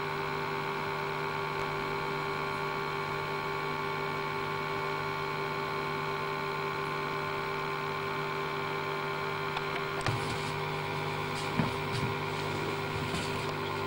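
A steady hum made of several fixed tones, with a few faint clicks about ten and twelve seconds in.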